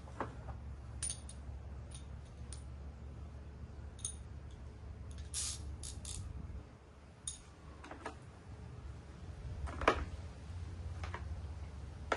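Scattered light metallic clicks and clinks of hand tools and mower parts being handled, with one sharper knock about ten seconds in, over a steady low hum.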